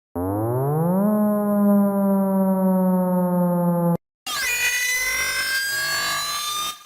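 Edited siren sound effects. First a single siren tone winds up in pitch for about a second, sinks slowly, and cuts off suddenly after about four seconds. After a brief gap comes a cluttered layering of several siren tones gliding at once.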